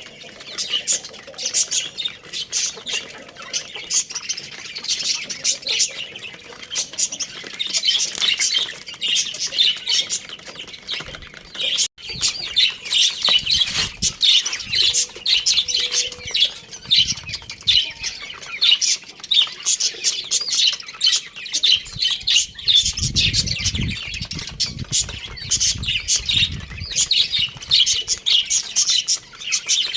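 Many small birds chirping and squawking at once in a dense, continuous chatter, with a brief cut about twelve seconds in and some low rumbling thuds in the second half.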